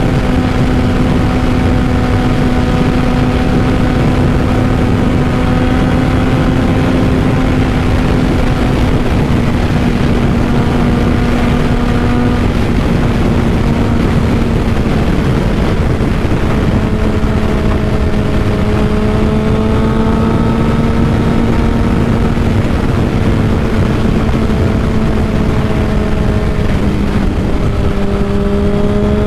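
2005 Honda CBR600RR's inline-four engine with a Two Brothers full exhaust running at a steady cruise, its note easing slightly lower over the first half and dipping briefly near the end. Heavy wind noise on the microphone runs underneath.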